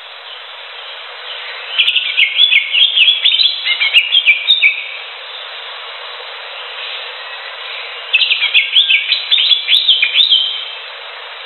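Green leafbird (cucak hijau) singing two bursts of rapid, varied chirping phrases, each about three seconds long and a few seconds apart, over a steady background hiss.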